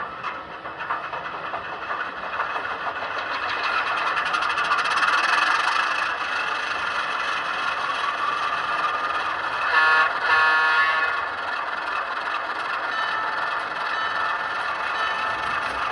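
HO scale model diesel locomotive running steadily along the track, louder over the first few seconds. About ten seconds in there is a brief pitched sound about a second long.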